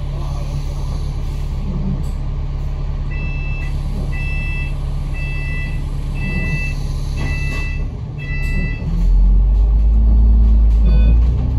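Bus engine running steadily under six short, evenly spaced electronic warning beeps, about one a second. About nine seconds in the engine grows much louder as the bus pulls away.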